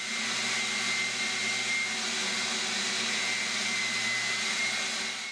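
Electric sander running steadily against a wooden chair back, with a thin motor whine over the even sanding noise.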